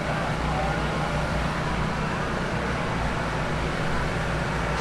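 Busy outdoor crowd ambience: a steady wash of distant chatter over a constant low hum.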